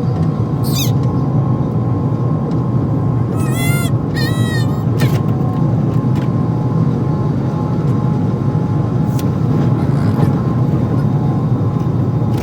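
Steady low rumble of a moving train, heard from inside the carriage. About three and a half seconds in, a baby lets out two short high-pitched squeals.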